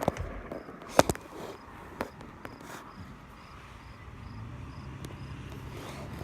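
Firework bangs, a sharp one about a second in with a quick second pop after it and a lighter one about two seconds in. Behind them, crickets chirp steadily at about three chirps a second.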